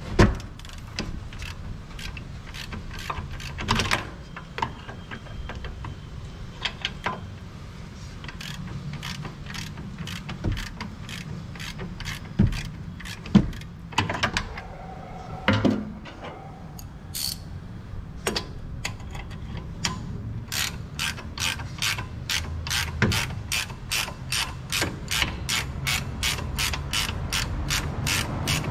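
Hand ratchet wrench being worked: scattered clicks and a few knocks at first, then, from about two-thirds of the way through, a steady run of ratchet clicks at about three a second as a fastener is turned.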